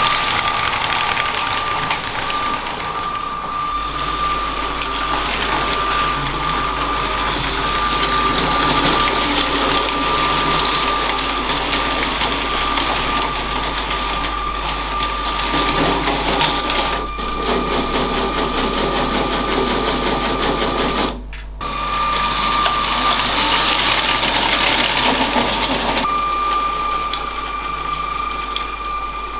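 Electric motor of a LEGO train whining at a steady pitch while its wheels rattle along the plastic track. The sound dips briefly about two-thirds of the way through.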